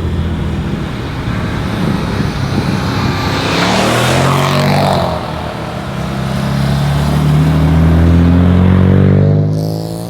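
Modified car engines and exhausts as cars drive away under acceleration. A loud rushing burst comes about four seconds in, then an engine note climbs steadily in pitch, loudest near the end before it falls away.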